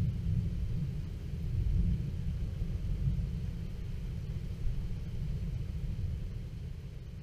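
Low rolling thunder rumbling on and slowly dying away.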